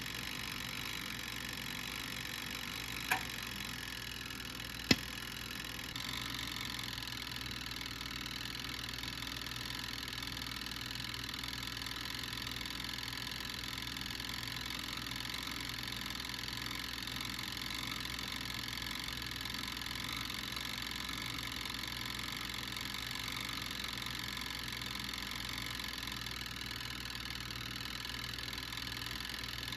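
Garlic cooking on the heat with a steady sizzle and hum, and two sharp pops about three and five seconds in; the hiss grows a little louder about six seconds in.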